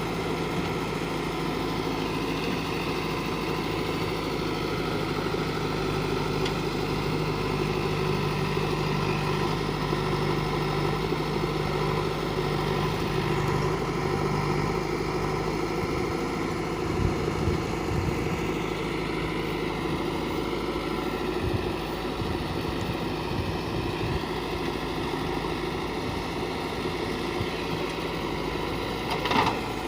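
Diesel engine of a heavy machine running steadily at an even speed, with a few short knocks past the middle and a sharp click near the end.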